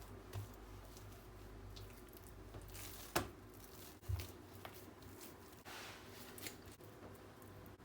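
Quiet kitchen handling sounds over a faint steady hum: a few light clicks and rustles, a sharp click about three seconds in and a soft thud about a second after it.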